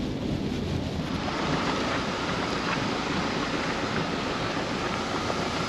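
Steady rushing road and rain noise inside a moving car on a wet road; the hiss grows brighter about a second in.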